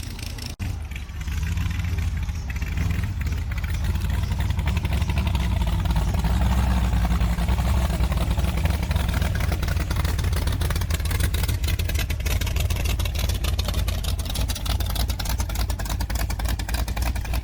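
A car engine running steadily with a deep, pulsing exhaust note, cut by a brief dropout about half a second in.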